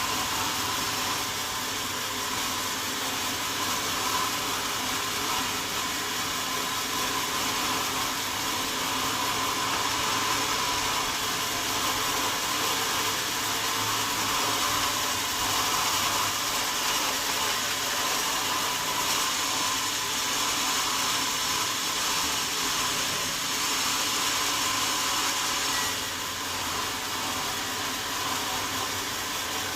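Sawmill saw running, a steady, even whirring noise of the blade working through wadang wood, easing slightly near the end.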